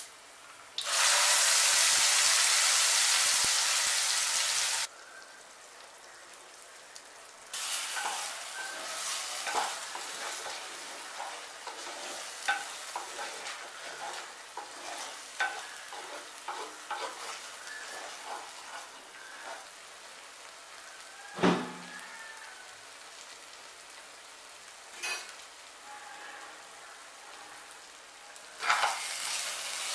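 Onion chutney paste frying in oil in an earthenware pot. A loud sizzle lasts about four seconds, then gives way to a quieter sizzle as a spoon stirs and scrapes the thick paste, cooking it till the oil separates. A single sharp knock comes about two-thirds of the way through, and the loud sizzle returns near the end.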